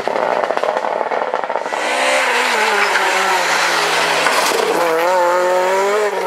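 Rally car engine running hard. A rapid rattling noise fills the first two seconds, then the engine note comes through clearly and climbs and wavers, strongest in the last second or so.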